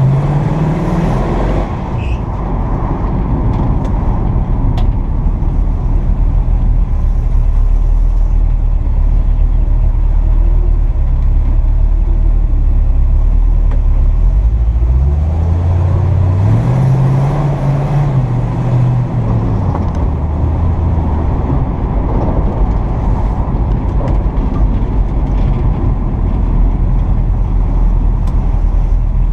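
1957 Chevy 3100 pickup truck under way, its engine running over a constant low rumble. The engine pitch rises and drops about two seconds in, as at a gear change, holds steady, then rises again around the middle and falls back a few seconds later.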